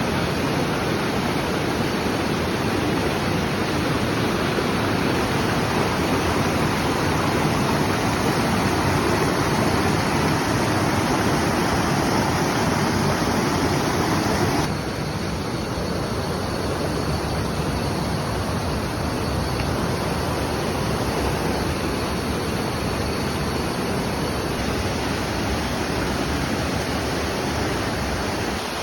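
Steady rush of flowing water, like a waterfall or fast stream. It drops abruptly in level about halfway through.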